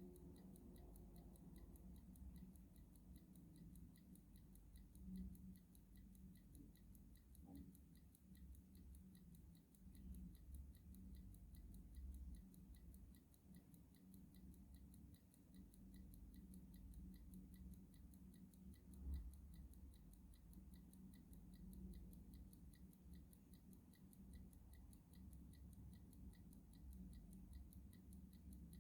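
Clock ticking faintly and steadily, in an even rhythm, over a low background hum.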